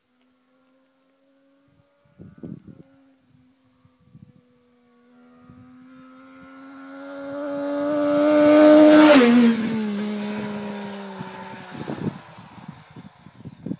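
Triumph Street Triple 675R's three-cylinder engine through an Arrow twin exhaust, held at steady revs as the motorcycle rides past: the note grows louder on approach, drops in pitch as it passes about two-thirds of the way in, then fades as it moves away.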